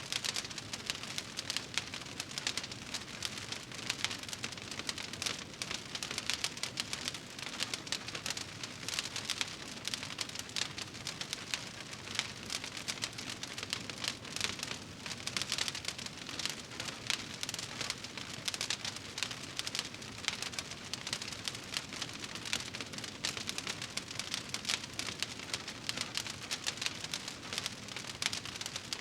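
Wood fire crackling in a fireplace: a dense, steady stream of small pops and snaps over a soft hiss.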